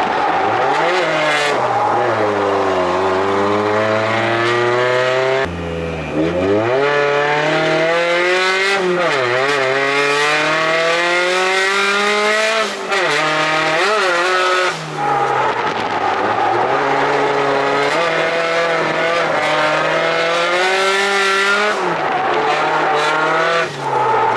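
Drift car's engine running hard through a run on track, its pitch climbing and falling again and again as the throttle is worked, with several brief drops when the throttle is lifted. Tyres squeal under it.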